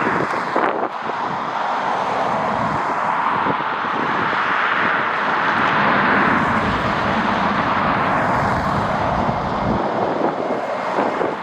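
Jet airliner's engines passing close, a broad rushing noise that swells to its loudest about midway and eases a little near the end. Irregular low rumbling from gusty wind on the microphone runs underneath.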